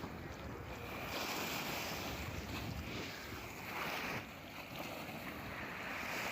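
Wind blowing across the microphone over the wash of water, with a stronger surge a little before four seconds in.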